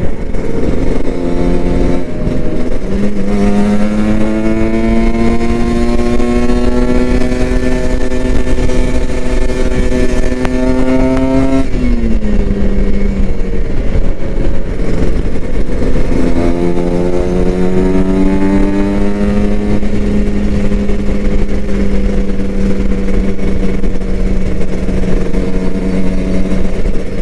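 Kawasaki Ninja RR 150's two-stroke single-cylinder engine running under way, with its pitch rising slowly under throttle. The pitch drops sharply about twelve seconds in, then climbs again and holds steady, over a low wind rumble.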